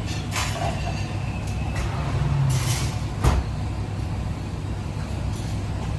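Kitchen cooking noise: a steady low rumble, a short hiss about two and a half seconds in, and a sharp knock just after three seconds.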